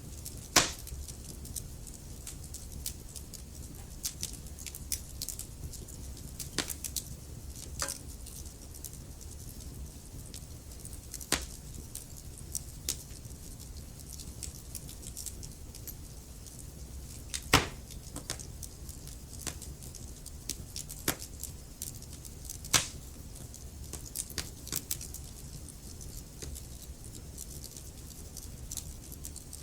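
Wood fire in a fireplace crackling: scattered sharp pops and snaps over a low steady rumble of the flames, with a few much louder pops, one just after the start and a couple more past the middle.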